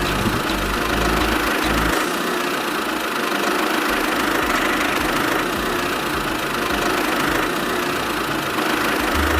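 A motor running steadily, engine-like, with a deep low hum underneath that drops away about two seconds in.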